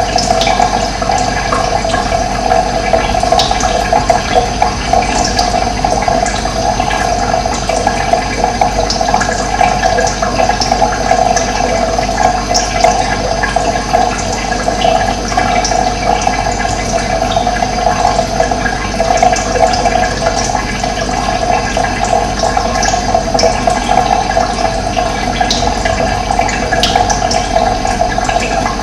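Running water flowing steadily, with short high bird chirps here and there.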